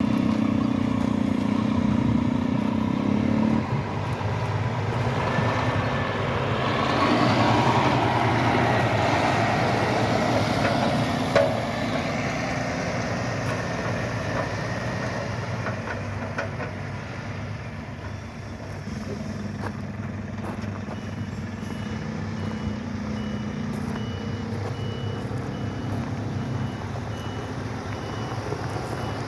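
Scania P400 8x4 hook loader truck's diesel engine running, rising and then falling in pitch about a third of the way in. From about two-thirds through, a reversing alarm beeps at a steady pace.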